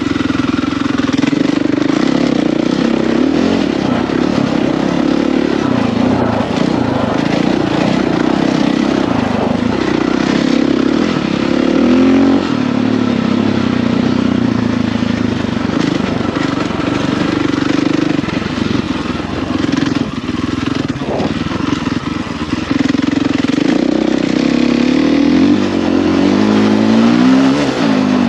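Husqvarna FE450's single-cylinder four-stroke engine running under way on a trail ride, its pitch rising and falling with the throttle, with climbs in revs near the middle and again near the end.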